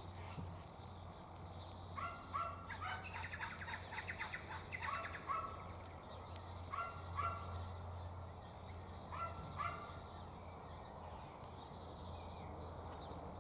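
Bird calls: short, flat notes in pairs, repeated about four times, with a fast chattering trill between about 3 and 5 seconds in, over a steady low hum.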